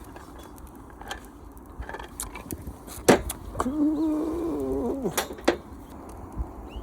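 A few sharp clicks or knocks, with a man's voice drawn out on one syllable for about a second and a half between them.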